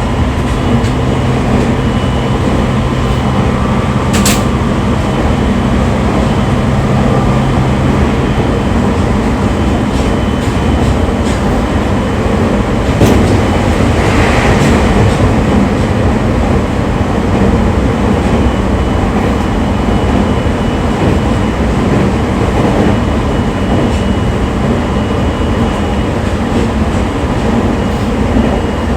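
Electric train running between stations, heard from inside the passenger car: a steady rumble of wheels on rail. A low hum stops about eight seconds in, and a few sharp clicks come through the rumble.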